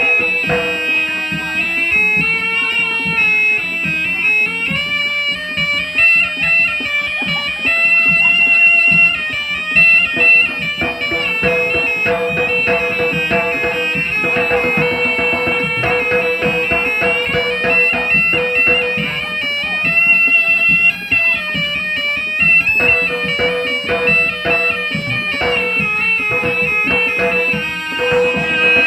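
Live Javanese jaranan music: a shrill double-reed trumpet (slompret) plays a wavering, held melody over quick, steady drumming.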